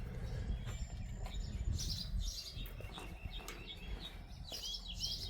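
Wild birds chirping in short bursts of high calls, several times over the few seconds, over a steady low background rumble.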